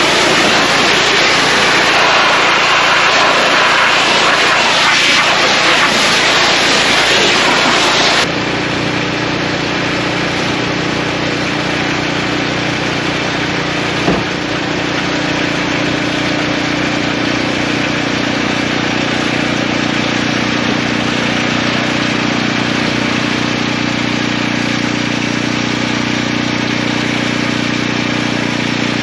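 A loud steady rushing noise, then after a sudden change about eight seconds in, an engine running steadily at an even pitch, with one sharp click about halfway through.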